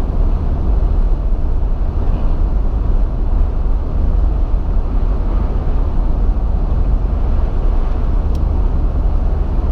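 Steady low rumble of a car driving, heard from inside the cabin: tyre and engine noise on snow-covered roads.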